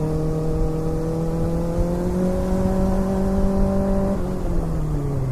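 Kawasaki ZX-6R inline-four sport bike engine pulling steadily under way, its pitch rising slowly for about four seconds, then falling as the throttle eases off.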